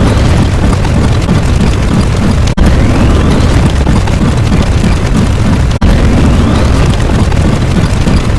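Explosion sound effect playing in a loop: a loud, dense rumble that cuts out briefly and restarts abruptly about every three seconds, twice in this stretch, with a faint rising whistle just before each restart.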